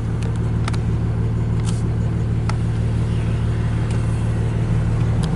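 Truck engine idling steadily, a low even hum, with a few faint clicks.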